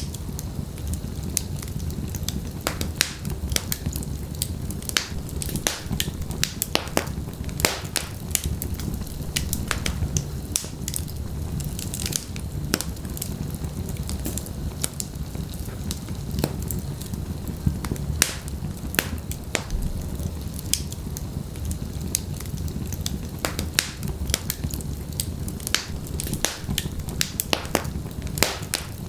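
Wood fire of burning logs crackling and popping, with many irregular sharp snaps over a steady low rumble of flame.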